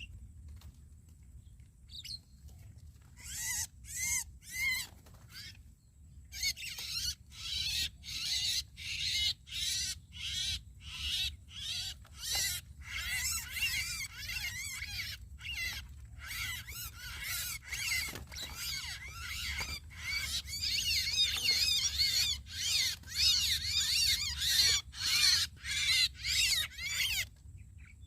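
Javan mynas (jalak kebo) giving harsh, chattering squawks in a dense run. The calls start about three seconds in, grow louder about two-thirds of the way through, and stop shortly before the end.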